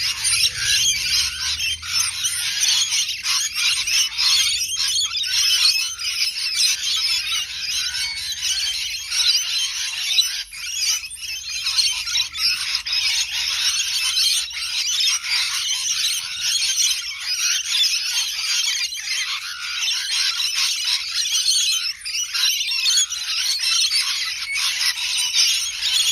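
Parrots chattering in a continuous, dense, high-pitched stream of calls.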